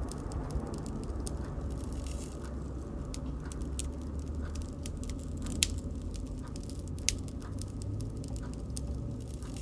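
Bonfire crackling: scattered sharp pops and snaps, a couple of them louder, over a steady low rumble of burning.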